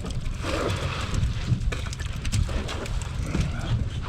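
Wind buffeting the microphone as a steady low rumble, with scattered light clicks and taps over it.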